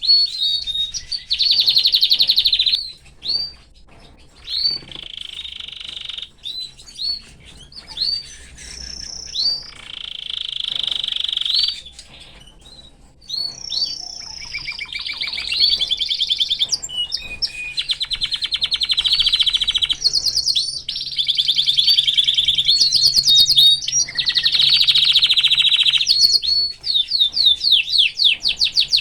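Domestic canary singing a long, varied song of fast rolling trills, rapid chattering note series and high sweeping whistles, with short pauses between phrases.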